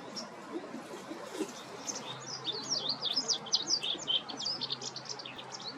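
White wagtail twittering: a few sharp chirps, then from about two seconds in a fast run of high chirps and quick up-and-down notes that thins out near the end.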